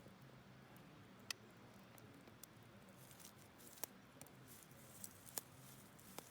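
Wood campfire crackling: a handful of sharp, irregular pops over a faint steady background.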